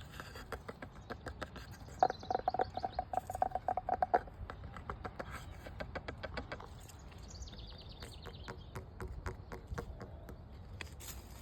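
Quick runs of tapping on a hard object that rings faintly, fastest and loudest about two to four seconds in, with birds chirping in the background.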